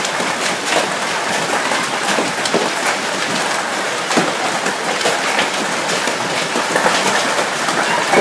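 Heavy hail pelting down: a steady, dense clatter of hailstones with many separate sharp hits on hard surfaces.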